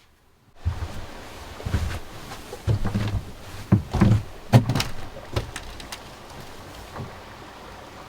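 A string of irregular knocks and thunks, like gear being handled and set down, the loudest about four to five seconds in, over a steady outdoor hiss that comes in just under a second in.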